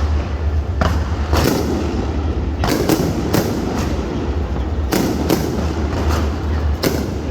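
Aerial fireworks bursting: about ten sharp bangs at uneven intervals, some in quick pairs, each trailing off in a brief echo over a continuous rumble.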